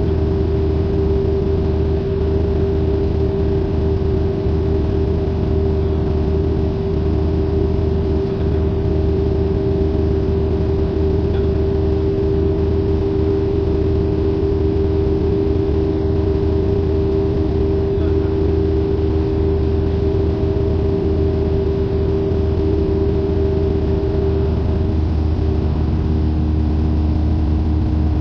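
Steady in-cockpit drone of a Cessna 172N's four-cylinder Lycoming engine and propeller in flight. The engine tone shifts slightly near the end.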